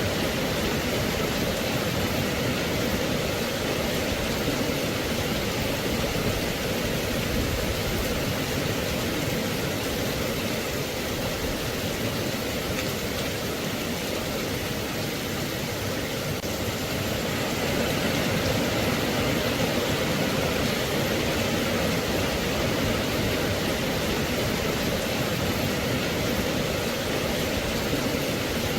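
Steady rain falling, an even hiss of many drops with no distinct strikes or thunder.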